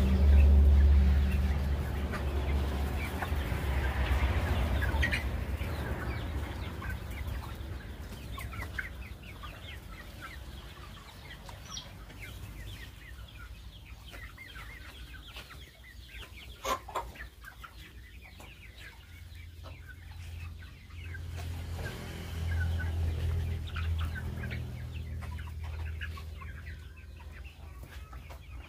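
A flock of 79-day-old Kaveri and gavran (desi) chickens clucking and calling, many short calls overlapping throughout. A low rumble sits under them at the start and again around two-thirds of the way through, with a single sharp knock a little past the middle.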